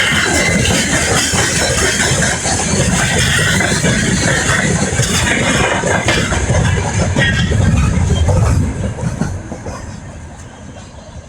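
Freight train rolling past on the rails, with wheel noise and clatter from the wagons. It stays loud until about eight and a half seconds in, then fades away.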